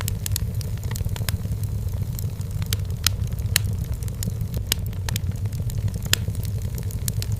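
Burning firewood in a fireplace crackling: irregular sharp pops and snaps, a few louder than the rest, over a steady low rumble of the fire.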